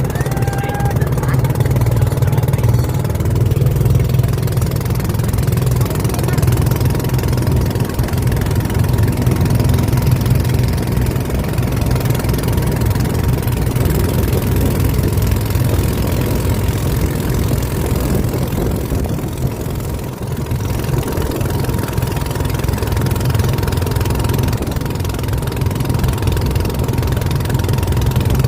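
Boat engine running steadily at a constant speed, a low, even drone.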